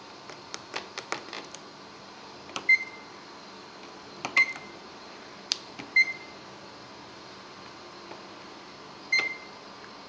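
Microwave oven keypad being set to cook on high for 5 minutes: four short high beeps a second or two apart, one per button press. Sharp clicks and knocks of handling come near the start.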